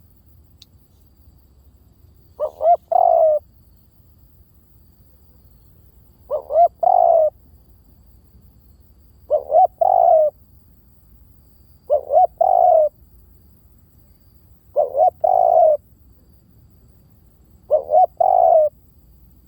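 Spotted dove cooing: six call phrases about three seconds apart, each a couple of quick short notes running into one longer coo.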